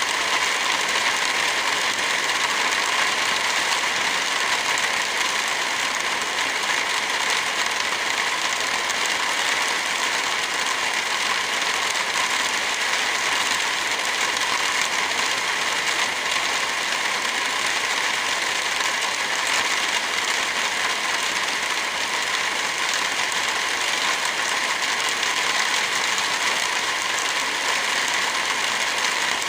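Steady rain falling, with a wood fire crackling, unchanging throughout.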